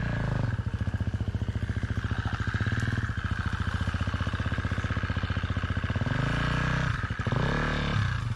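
Dirt bike engine running at a steady low speed with an even firing beat. Near the end the revs rise and fall.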